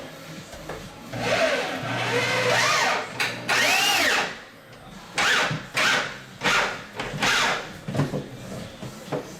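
Power drill driving screws into wood. The motor whine rises and falls with the trigger in a long run, then comes in several short bursts in the second half, as the screws are snugged home.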